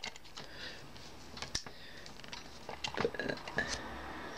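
Faint clicks and rustling from a diecast model truck being handled and adjusted by hand, with a sharper click about a second and a half in and a few more around three seconds.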